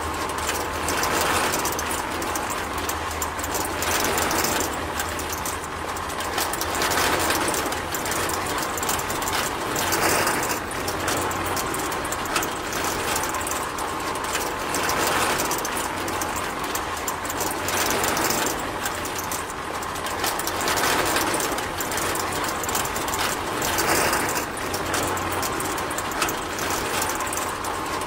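Small toy electric motor driving plastic gears on a miniature model, a steady mechanical whir and gear rattle that swells a little every few seconds.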